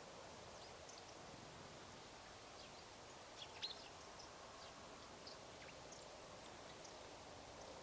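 Eurasian tree sparrows giving scattered short, high chirps, with one louder chirp about halfway through, over a faint steady background hiss.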